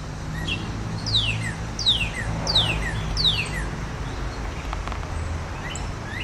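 Northern cardinal song: a series of four loud, clear whistles, each sliding steeply down in pitch, about 0.7 s apart, with a few short chips before them. A low steady hum runs underneath.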